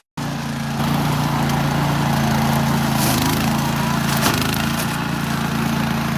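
Remote-controlled lawn mower's engine running steadily at an even speed, with a couple of brief knocks about three and four seconds in.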